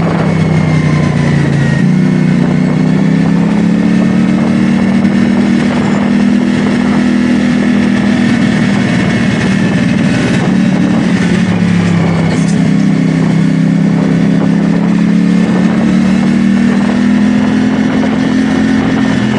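CFMoto 450SR S motorcycle's parallel-twin engine running steadily under way, its pitch drifting gently up and down with small dips about two seconds in and again around the middle.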